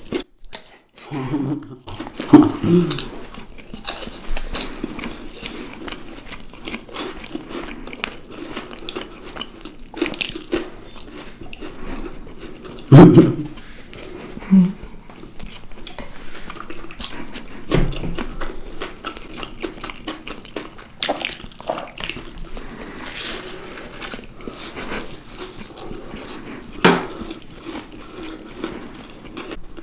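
Someone eating chocolate treats: scattered sharp clicks, taps and crunches, the loudest about 13 seconds in.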